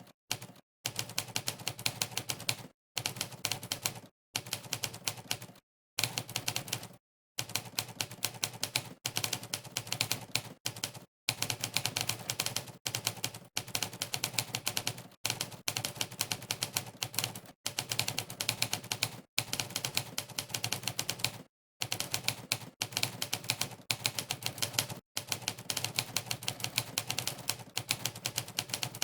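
Monkeytype's typewriter keystroke sound effect, one clack per key press, in fast runs broken by short gaps of dead silence.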